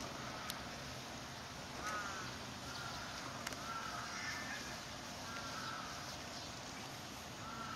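A bird calling over and over in short, arched calls, about one a second, with a few faint clicks among them.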